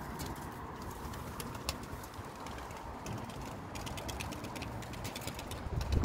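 Wind and rain: a steady low rumble of wind, with quick scattered ticks of raindrops throughout.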